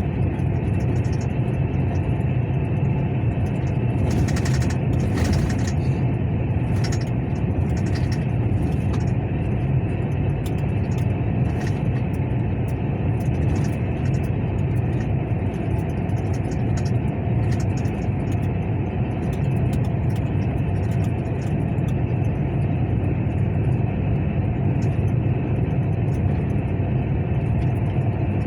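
Steady, unchanging drone of a truck's engine running, with scattered light clicks and ticks over it.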